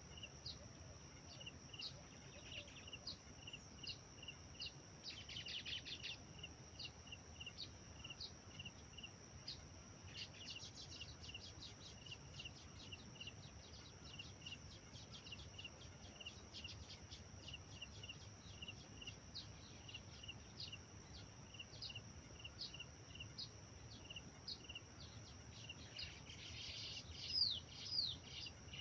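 Birds singing and chirping over a steady high insect drone and a regular chirp repeated about twice a second. A run of rapid trills comes about ten seconds in, and the loudest calls, a few sweeping notes, come near the end.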